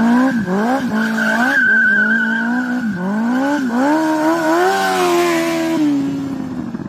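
Sport motorcycle engine revving up and down over and over, with a steady high-pitched tyre squeal held over it, as in a stunt burnout or drift. Both fade near the end.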